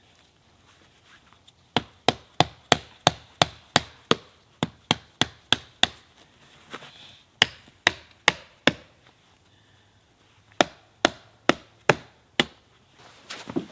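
Chopping wood: sharp blows struck about three times a second in three runs, a long run of about a dozen, then four, then five, with short pauses between.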